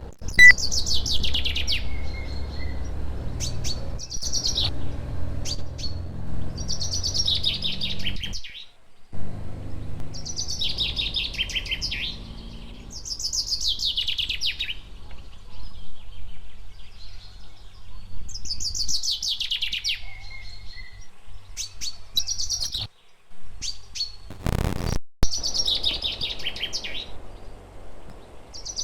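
A songbird singing, repeating one short phrase every three to four seconds: a fast trill that falls in pitch. A low steady hum runs underneath.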